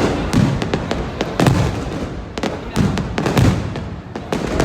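Fireworks going off: a dense run of sharp cracks and pops, with deeper booms about once a second.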